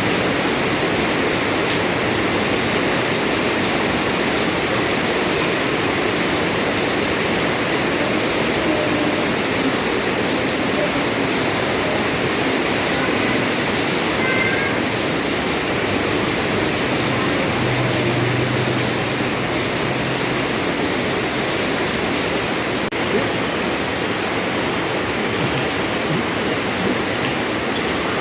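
Steady heavy rain pouring down, an even hiss of falling water.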